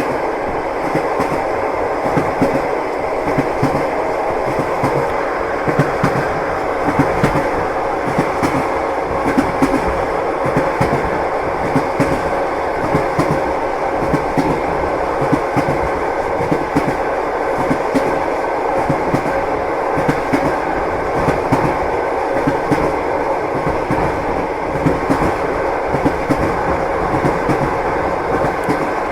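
Passenger train wheels clattering over the rails, with frequent short knocks over a steady running rumble of the carriage, heard from inside the car.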